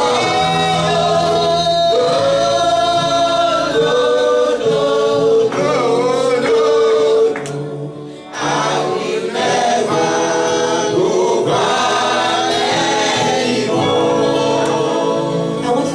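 Gospel worship music: a choir and lead voices singing long held notes over a steady instrumental backing, with a brief drop in level a little past the middle.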